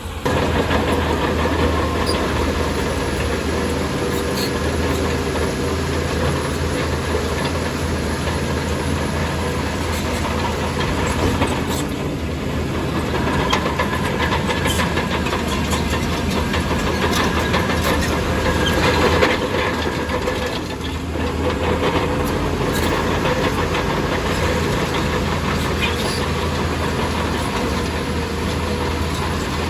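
Shantui DH17C2 crawler bulldozer's diesel engine running steadily under load, with the clatter and clanking of its steel tracks.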